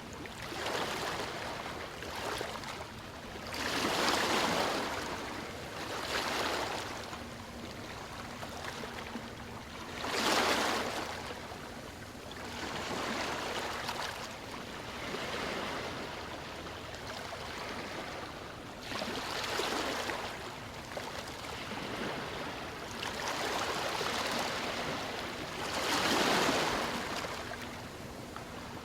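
Ocean waves breaking and washing ashore: a steady wash of surf that swells into a louder rush every few seconds, the biggest about four, ten and twenty-six seconds in.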